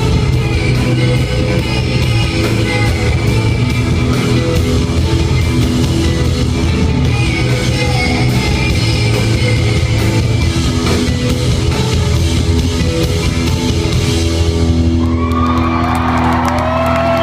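A rock band playing live, with electric guitars, bass and drums, heard from the audience. About three-quarters of the way through, the drums thin out and a sustained chord rings on as the song winds down, and the first crowd whoops come in near the end.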